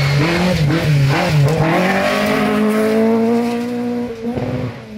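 Rally car engine at high revs as the car passes on a gravel sprint stage. The revs dip and rise for the first couple of seconds, then climb steadily under acceleration and drop sharply about four seconds in.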